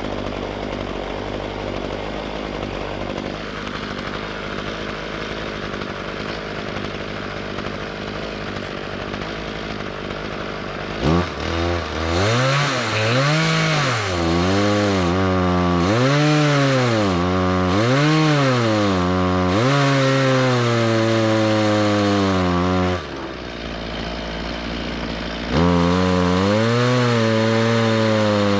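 Chainsaw on a chainsaw mill running steadily through wood for the first ten seconds or so. Then, louder, it revs up and down again and again, drops back to a lower steady run for a couple of seconds near the end, and revs again.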